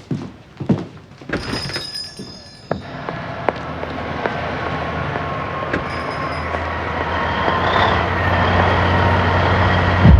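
A truck engine rumbling as it drives up, growing steadily louder as it approaches and pulls in. A few light knocks come in the first second or so.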